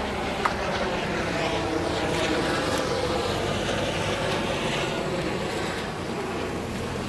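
Steady outdoor traffic noise, with a single short click about half a second in.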